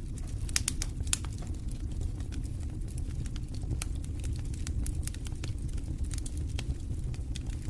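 Wood fire crackling in a fireplace: a steady low rumble of burning with frequent sharp snaps and pops, most crowded in the first second or so.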